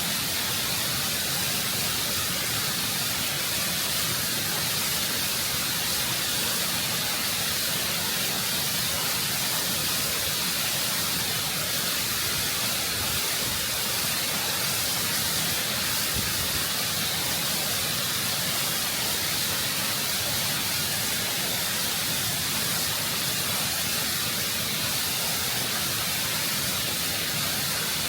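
Waterfall rushing over rock, recorded close up: a steady, full hiss of falling water, bright in the highs, with no change or break.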